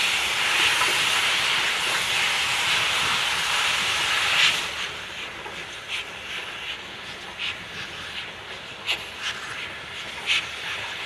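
Steam locomotive letting off a loud hiss of steam that stops sharply about four and a half seconds in. After that the train rolls on with a low rumble and scattered sharp clicks of wheels over the rail joints.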